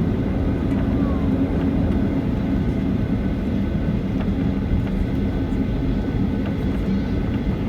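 Cabin noise inside a Boeing 737-800 taxiing after landing: its CFM56-7B engines run at idle as a steady low hum.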